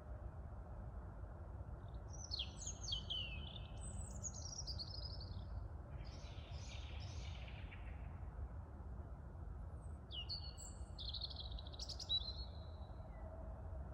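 A small bird singing two short bursts of quick, high, gliding notes, about two seconds in and again near the end. Under it runs a steady low rumble of wind and distant city noise.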